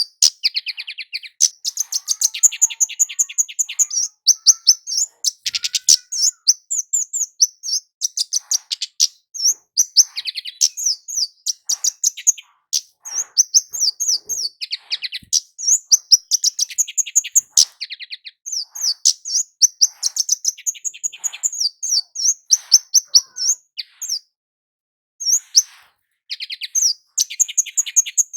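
Kemade jawa (a Javan flowerpecker) singing: rapid runs of high, thin chirping notes in phrase after phrase with short pauses, one longer pause near the end. It is the full, vigorous song ('gacor') used as a lure to set other kemade singing.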